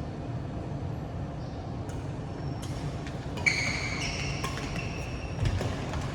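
Badminton play on an indoor court: several sharp racket hits on the shuttlecock, with high squeaks from shoes on the court floor from about halfway, over a steady low hum in the hall.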